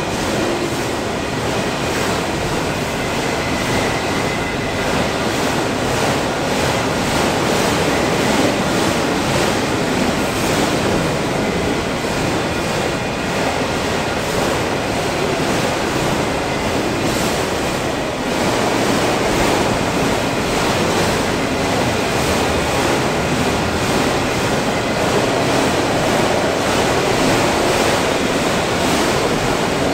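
Freight train of auto rack cars rolling steadily past: a continuous rumble and rush of wheels on rail, with repeated wheel clicks through it.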